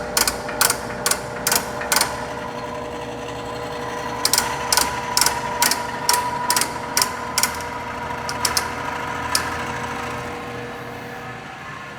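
Feed conveyor drive of an Extrema 36-inch planer sander running at a high feed speed with a steady whine and sharp regular clicks about two a second. The clicks stop for a while, come back, then thin out and stop, and the running sound fades near the end.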